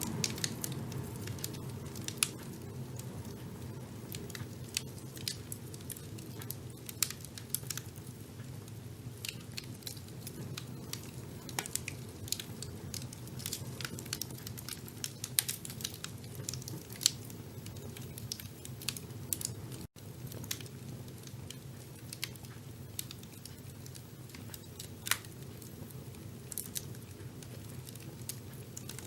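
Wood fire burning in a fireplace: irregular sharp crackles and pops over a steady low rumble of the flames. There is a split-second dropout about two-thirds of the way through.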